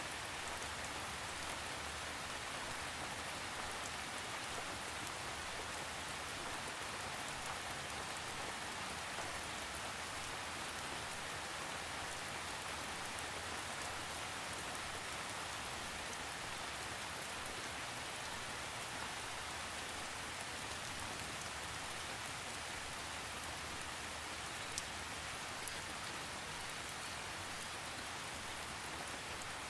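Steady rain falling on a surface, an even hiss without thunder, with a couple of distinct drop ticks near the end.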